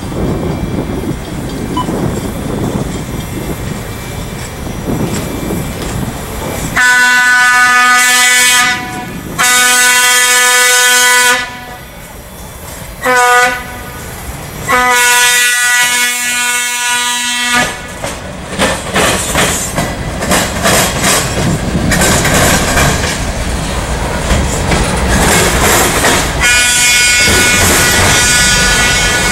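Freight train locomotive approaching with a low rumble, then sounding its air horn in the grade-crossing pattern: two long blasts, one short, one long. After that the train's cars roll past with the clickety-clack of wheels over rail joints, and a high wheel squeal near the end.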